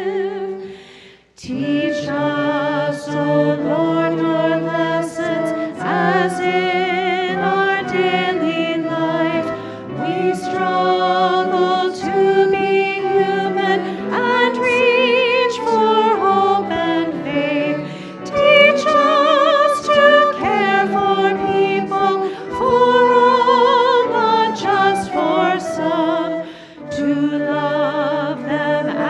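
Voices singing a slow hymn, the held notes wavering with vibrato, with a brief pause about a second in between lines.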